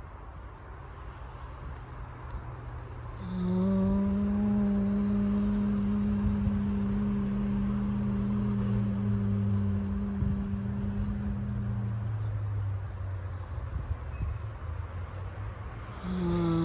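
A woman humming one long, low, steady note, starting about three seconds in and held for about eight seconds. A bird repeats a short, high chirp about once a second throughout, over a low rumble.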